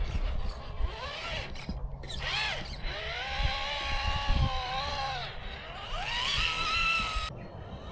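Electric motor and gears of an RC rock crawler whining, rising and falling in pitch as the throttle is worked, with a few low knocks as it climbs over rock.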